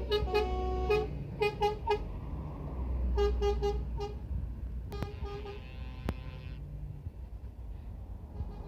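Truck horns sounding a series of short toots, several in quick succession during the first half, over the low rumble of passing lorry engines.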